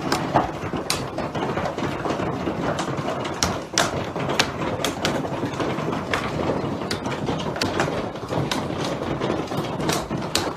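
Hailstones pelting down in a dense, steady rattle, with many sharp cracks of single stones striking at an irregular rate.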